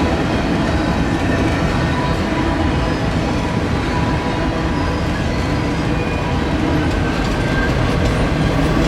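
Freight train rolling past, a steady loud rumble of wheels on the rails.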